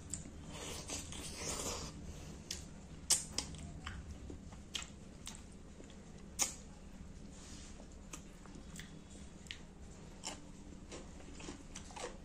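Close-miked chewing and wet lip-smacking of someone eating soft fish curry and rice, with sharp mouth clicks scattered throughout and a longer wet sucking sound in the first two seconds. Two louder smacks stand out about three and six seconds in.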